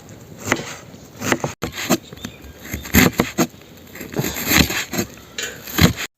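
A series of irregular knocks, taps and cracks, like wood being chopped or handled, unevenly spaced, with an abrupt cut a little over a second in.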